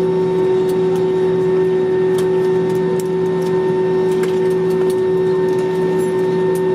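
Steady mechanical hum inside a vehicle: a constant drone holding a few fixed tones over a smooth rush of noise, with a few faint ticks.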